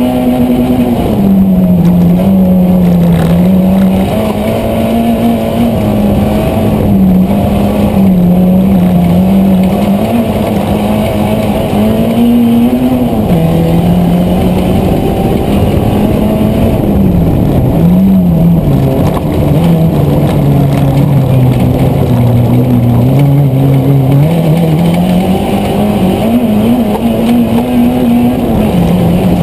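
Autocross race car's engine heard on board, pulling hard under load. Its note climbs and falls over and over, dropping in steps as the driver shifts gears and lifts off for corners on the dirt track.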